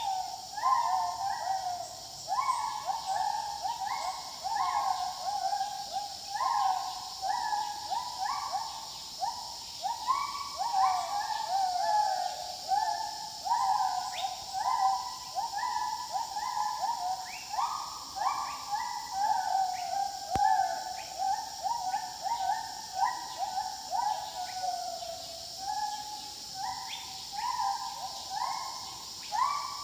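Gibbons calling: a continuous run of short rising whooping notes, one to two a second, with several voices overlapping.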